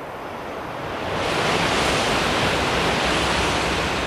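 Shinkansen high-speed train passing at speed: a rushing noise that swells, jumps sharply about a second in as the train comes alongside, and stays loud.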